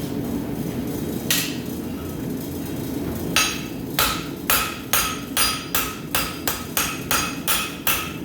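A rounding hammer striking hot steel on an anvil: one blow about a second in, then from about three seconds a steady run of ringing blows, about three a second. A low, steady propane-forge hum lies under it.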